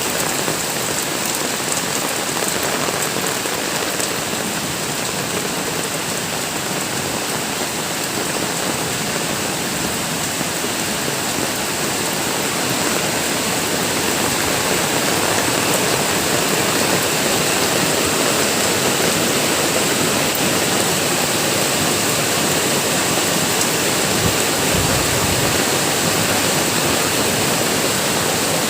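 Heavy rain pouring down, a dense steady hiss with a fine patter of drops; from about halfway through it grows a little louder and more even, like a downpour streaming off a surface.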